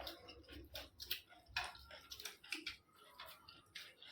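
People eating rice and curry during an eating challenge: chewing with many small, irregular wet mouth clicks and smacks, several a second.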